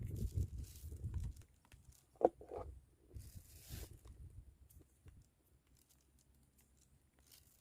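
Wind buffeting the microphone with a low rumble for about the first second and a half. After that come faint scattered taps, a short blip just after two seconds, and a brief rustle a second later.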